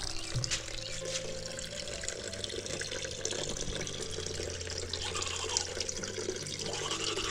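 Tap water from a storage tank running steadily into a sink, splashing.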